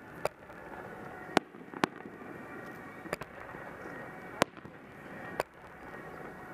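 Aerial firework shells bursting: about seven sharp bangs at irregular intervals over a steady background noise.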